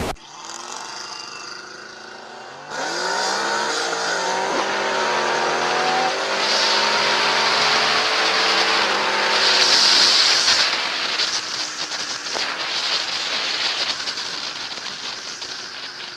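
A motor vehicle's engine running and revving, its pitch rising and falling, with a loud hiss that swells about ten seconds in.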